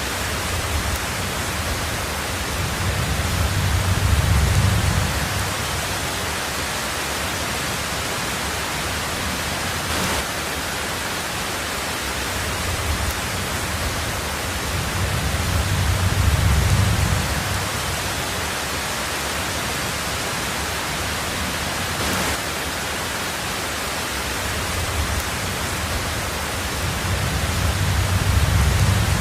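Heavy rain drumming steadily on a tin roof, with low rumbles of thunder that swell and fade three times, about every twelve seconds.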